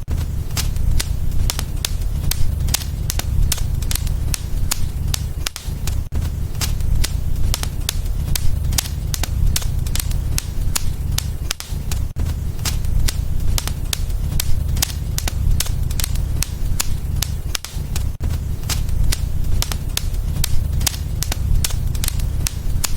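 Wood fire in a fireplace crackling: many sharp pops and snaps, several a second, over a steady low rumble of the flames.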